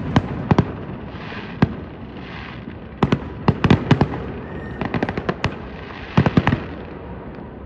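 Large wood bonfire burning, with sharp cracks and pops going off singly and in quick irregular clusters over a steady crackling hiss.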